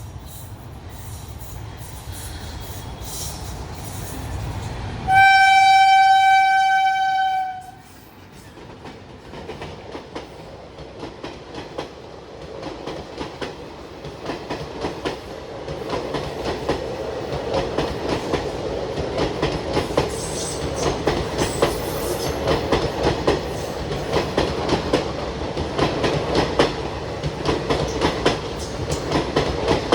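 Train running with a low rumble; about five seconds in, a locomotive horn sounds one loud, steady note for about two and a half seconds. After it the wheels clatter over the rail joints, growing louder as the train passes or picks up speed.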